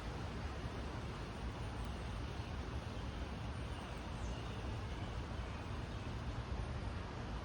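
Steady low outdoor background rumble, with a few faint, high bird chirps now and then.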